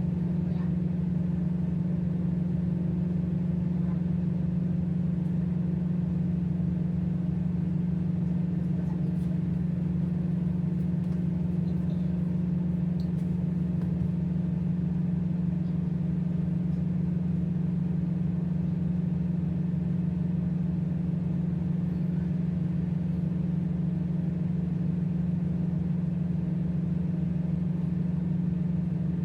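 Tugboat's diesel engines running steadily, a constant low hum that does not change in pitch or level.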